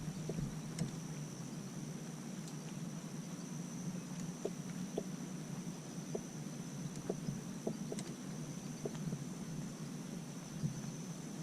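Faint outdoor ambience: a steady, high-pitched insect drone held throughout, with scattered small clicks over a low, steady hum.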